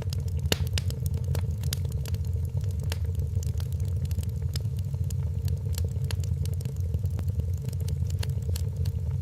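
Wood fire crackling in a fireplace, with many sharp, irregular pops and snaps over a steady low rumble.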